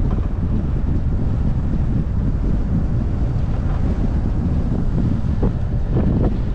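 Wind buffeting the microphone of a bonnet-mounted action camera on a moving car, a steady low rumble.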